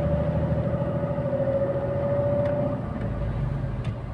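KamAZ 4308 truck's diesel engine running at road speed, heard from inside the cab as a steady drone with a constant whine above it. The drone gets a little quieter about three seconds in.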